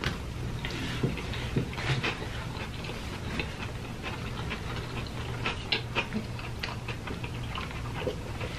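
Close-miked chewing and mouth sounds of a man eating a sandwich: soft wet clicks and smacks scattered irregularly, over a low steady hum.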